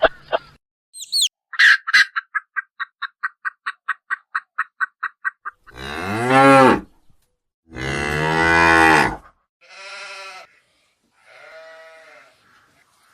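Animal calls: a fast run of short repeated notes, about five a second, for some four seconds, then four long low calls, the first two loud and the last two much fainter.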